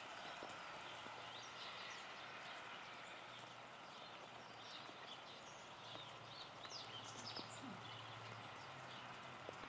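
Steady hiss of light rain falling on foliage, with scattered faint taps and clicks, more of them in the second half.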